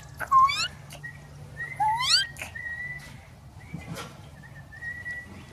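A person whistling to imitate a northern cardinal: two loud slurred whistles that rise in pitch, one near the start and one about two seconds in, with fainter, thin, steady whistle notes between and after them.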